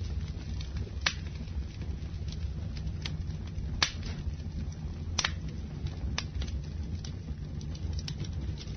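Wood fire burning: a steady low rumble of flames with scattered sharp crackles and pops from the burning wood, the loudest pops about a second in and again around four and five seconds in.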